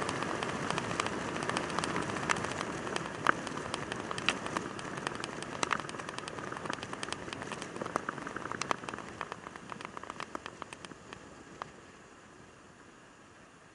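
Motorcycle riding in the rain: steady wind and road noise with many sharp ticks of raindrops hitting the camera, the whole dying away over the last few seconds.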